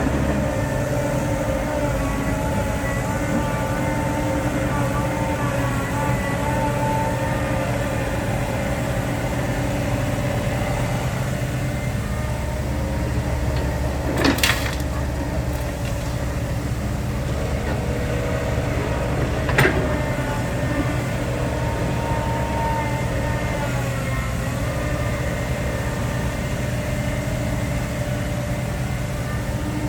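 Six-wheel dump truck's diesel engine running steadily, its pitch shifting only slightly. Two sharp knocks break in, about halfway through and again some five seconds later.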